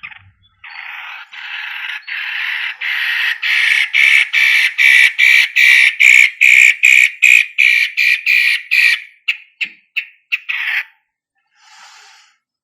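Cendet (long-tailed shrike) giving a long, harsh, scratchy chatter of rapid pulses, about three a second, growing louder over several seconds. A few short notes break off near the end.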